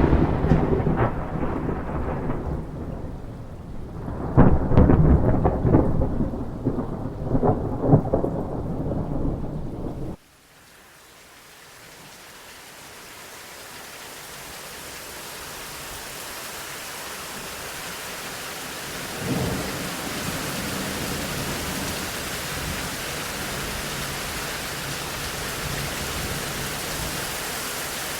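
Thunder rumbling in two long rolls that stop suddenly about ten seconds in. Steady rain hiss then fades in and builds, with a short low rumble near the twenty-second mark.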